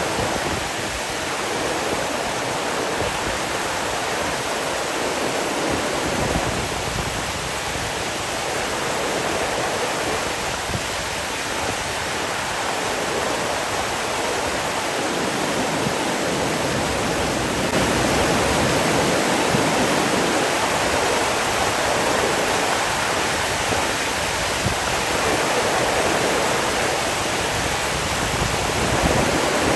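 Rushing water, a steady continuous wash of noise that swells slightly now and then and is a little louder in the second half.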